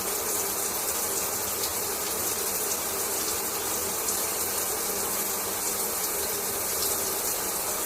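Shower running: a steady spray of water falling, with a bright hiss and fine spatter.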